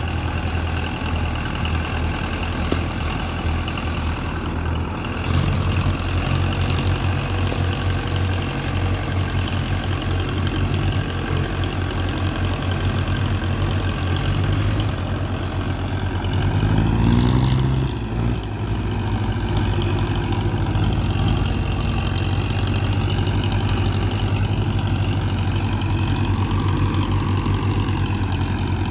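Tractor diesel engine running steadily. It grows louder about five seconds in, then revs up briefly near the middle and drops back before settling to a steady run.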